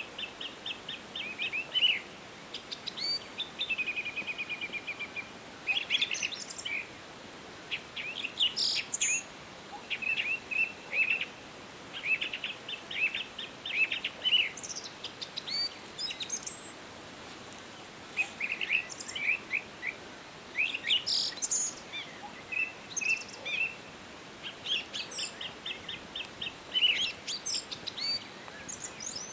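Forest songbirds singing: bursts of quick chirps and trills every second or two, mixed with scattered higher, thinner notes from at least one other bird, over a faint steady hiss.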